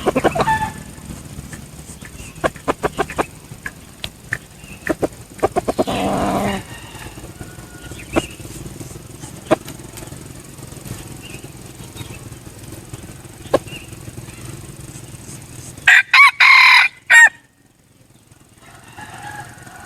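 Junglefowl rooster crowing: one loud crow about three-quarters of the way through, and a fainter call around six seconds in. Sharp clicks are scattered throughout.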